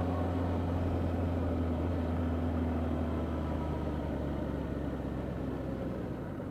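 Motorcycle engine running steadily with a low hum while riding, gradually getting quieter.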